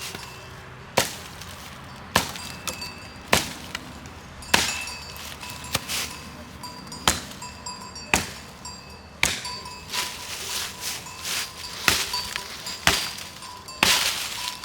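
Sharp chopping strikes at a steady pace of about one a second, with a longer, louder strike near the end.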